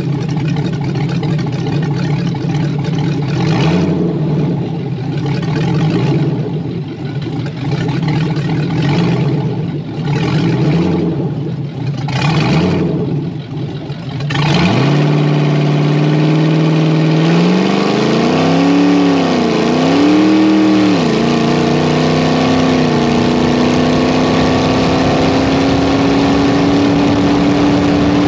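LS V8 engine of a drag altered: idling with several sharp throttle blips, then about halfway through it goes to full throttle for a pass down the drag strip. The engine note climbs in pitch, dips twice, and then keeps rising slowly and steadily to the end.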